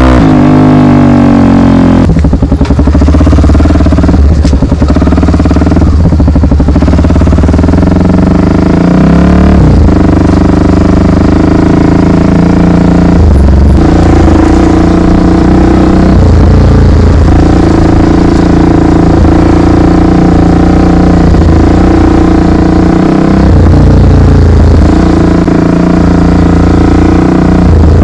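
Honda XR 250 Tornado's single-cylinder four-stroke engine running loudly while the bike is ridden. Its pitch falls over the first couple of seconds, then holds fairly steady with small rises and dips.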